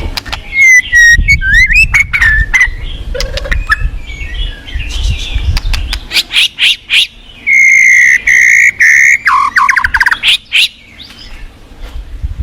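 White-rumped shama singing: loud, varied whistled phrases, a long held whistle and a rapid chattering trill. Low rushing river noise runs under the first half.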